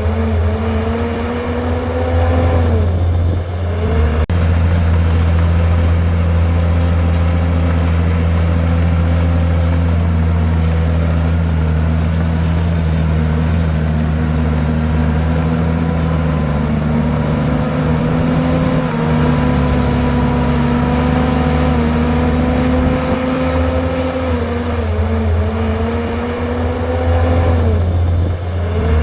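Komatsu bulldozer's diesel engine running steadily as the machine works, its note sagging briefly about three seconds in and again near the end.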